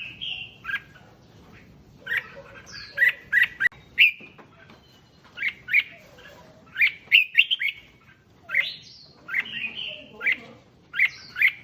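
Red-whiskered bulbuls singing: short, bright chirping phrases in quick clusters, repeating every second or two.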